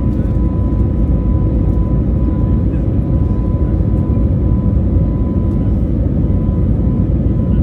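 Airbus A321neo jet engines running steadily: a loud, even low rumble with a thin, steady whine above it.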